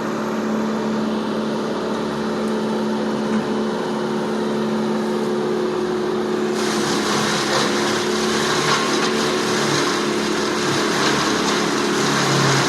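Heavy engine of tree-removal machinery running steadily. About six and a half seconds in, a harsher hissing, grinding noise abruptly joins it.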